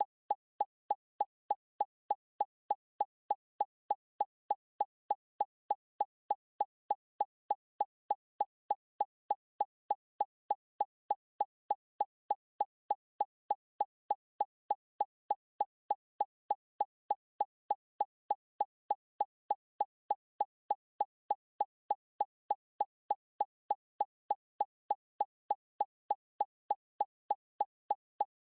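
A short, pitched plop-like blip sound effect repeated at a perfectly even pace, about three times a second, like a looped editing effect.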